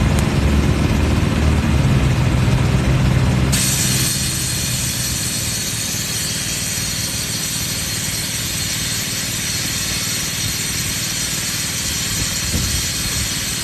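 An air compressor runs with a low hum. About three and a half seconds in, a loud hiss of rushing compressed air starts suddenly and holds steady: air being blasted into the tire to seat a bead that has not sealed.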